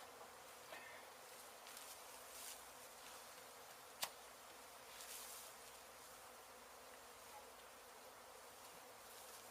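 Faint, steady buzzing of many honey bees from an open colony being worked, with a single sharp click about four seconds in.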